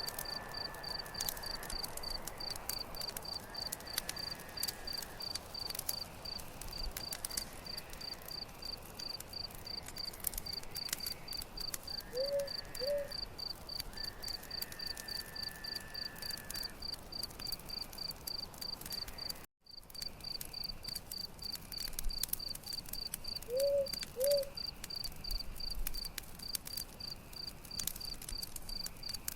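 Campfire crackling with a steady, even trill of crickets chirping. Twice a pair of short low notes sounds, and about two-thirds through the sound cuts out for an instant.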